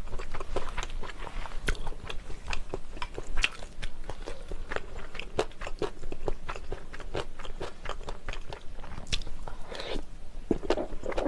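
Close-miked chewing of a mouthful of jjajangmyeon, black bean sauce noodles with vegetables, with many quick, irregular wet mouth clicks.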